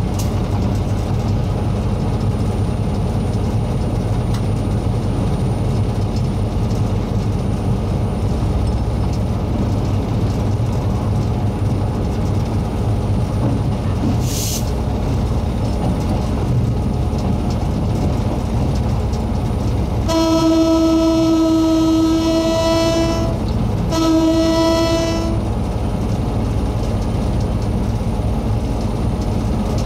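Train hauled by steam locomotive CT273 and diesel-electric locomotive R123 running with a steady low rumble. About two-thirds of the way through, the locomotive sounds its horn in one steady tone twice: a long blast of about three seconds, then a shorter one.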